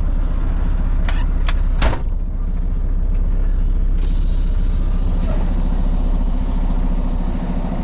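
Semi-truck diesel engine idling steadily, with three sharp knocks about a second to two seconds in, the last the loudest.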